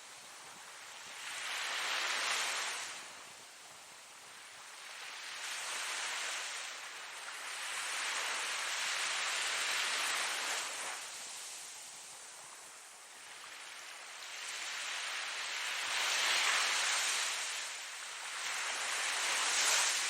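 Ocean waves breaking and washing in: a steady hiss of surf that swells and fades every few seconds, with the loudest surges about two seconds in and again in the last few seconds.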